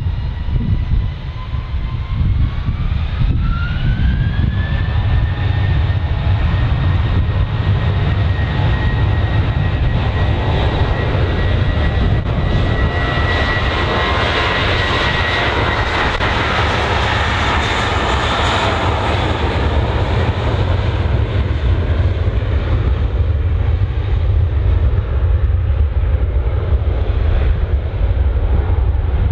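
A jet airliner's engines spooling up, with a whine that rises in pitch over the first few seconds and then holds steady over a heavy low rumble. The rushing engine noise swells to its loudest about 13 to 19 seconds in, then eases back to a steady rumble, in the way of an aircraft starting its takeoff roll.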